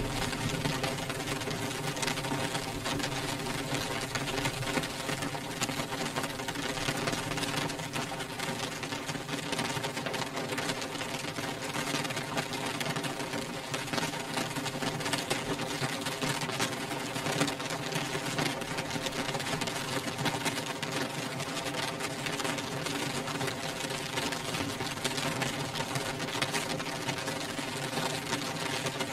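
Rain pattering steadily on window glass: a dense, even stream of drop impacts with no let-up, over a steady hum.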